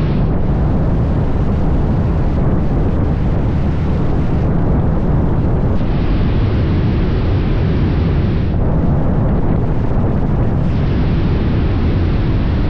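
Steady loud rush of wind and road noise, strongest in the low rumble, from a motorcycle on the move, with the engine buried in it.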